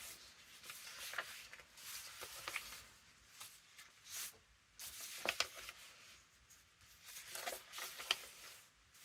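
Sheets of paper rustling and sliding as they are handled and flipped through, with a couple of sharper crackles about five and eight seconds in.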